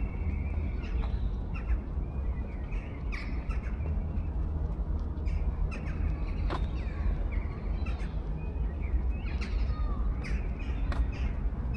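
Birds calling, many short calls scattered throughout, over a steady low rumble.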